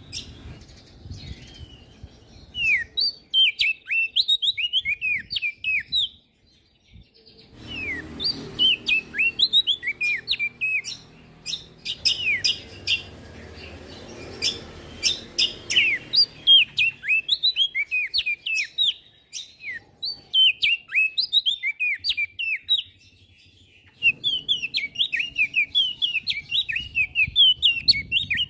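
A prenjak daun songbird singing in rapid, chattering strings of high chirps, with a short break about six seconds in.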